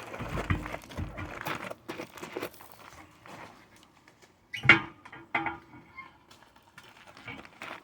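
Knocks and scrapes from hand work on a big truck tire being pried off its rim. The loudest is a sharp knock about five seconds in, followed by a smaller one half a second later.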